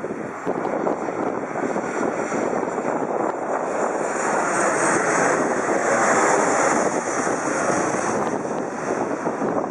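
Jet airliner passing low overhead: a swelling rush of engine noise with a thin high whine, loudest about six seconds in, then easing off.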